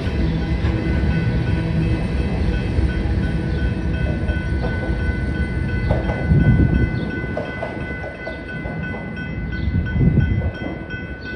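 A freight train's last car rolls past with a low rumble of wheels on rail, easing off about halfway through once the train clears. A railroad crossing bell rings steadily throughout.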